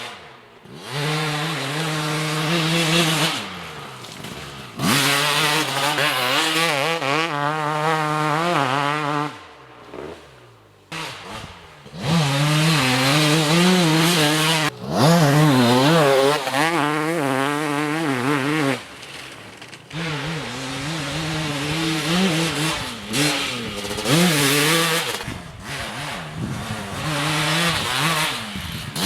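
2004 Kawasaki KX250's single-cylinder two-stroke engine being ridden hard, revving up and falling off again and again with the throttle and gear changes. It comes in several separate passes, with sudden jumps in loudness between them.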